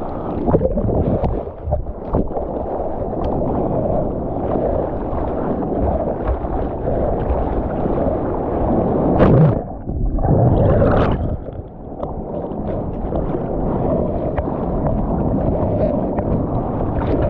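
Ocean water sloshing and rushing around a surfer in the surf, a continuous rough wash. It drops out briefly and surges louder a few times around nine to twelve seconds in.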